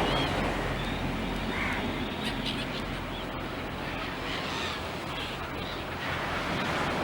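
A few short bird calls over a steady rushing noise of wind or surf.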